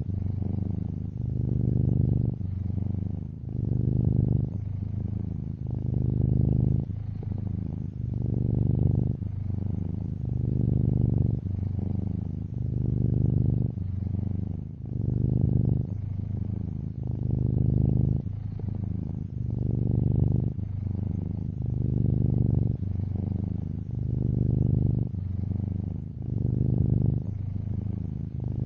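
Domestic cat purring close up, a steady low buzz that swells and eases in a slow rhythm about every two seconds as the cat breathes in and out.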